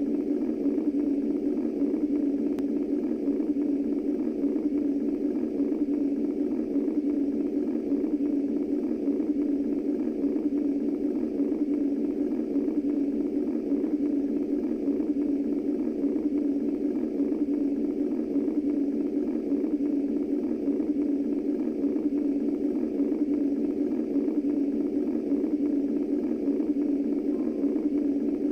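Womb-style white noise played as a sleep sound for babies: a steady, deep rushing noise without breaks or pulses.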